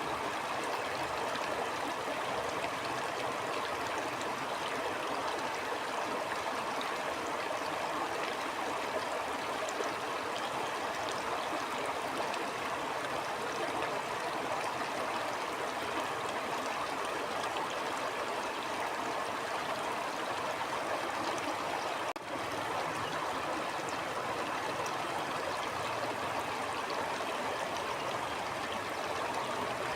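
Stream water flowing steadily and continuously, with a momentary dip in level about two-thirds of the way through.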